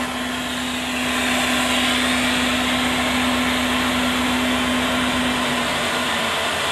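Steady rushing hiss inside a moving passenger train's driving cab, with a steady low hum that fades out about six seconds in.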